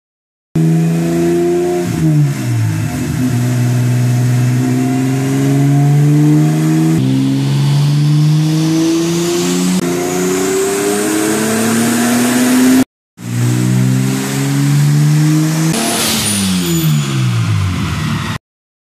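Turbocharged BMW M20 2.5-litre straight-six on a chassis dyno, running under load with the revs climbing steadily and a high turbo whistle rising with them. Near the end a brief rush of noise as the throttle closes, and the revs fall away.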